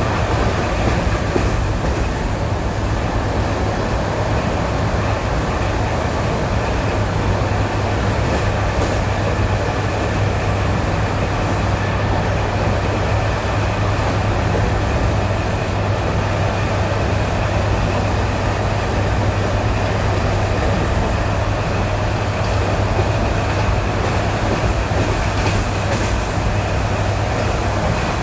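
ED9E electric multiple unit running at a steady speed, heard from inside the carriage: a continuous rumble of wheels on jointed rails over a steady low electric hum, with a few faint knocks.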